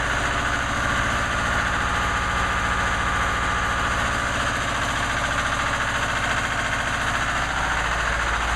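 Lister Petter diesel engine running steadily at idle with an even, rapid low beat, warmed up just after a hard cold start.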